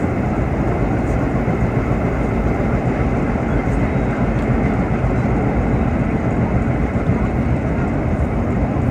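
Vintage R1-9 subway cars running on the line, heard from inside: a steady, loud rumble of wheels on rail and traction motors with no letup.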